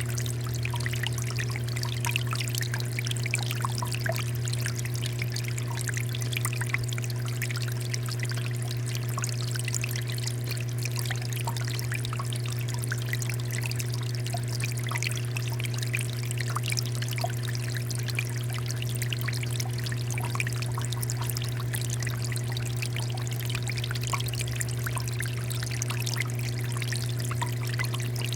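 Water fountain with water pouring and splashing steadily, many small droplet patters over a continuous flow. A steady low hum runs beneath it.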